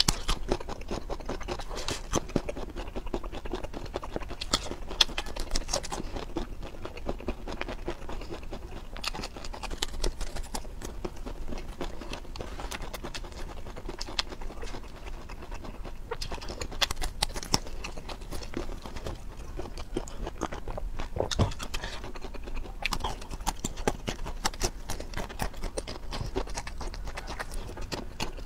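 A person chewing and crunching food close to the microphone, with many quick, irregular crisp crackles; part of it is baby corn being bitten and chewed.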